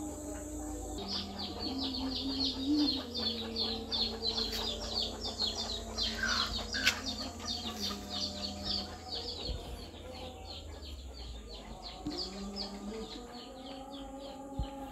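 Bird chirping in quick, even repeats, about four or five a second, over held low notes that change pitch every few seconds.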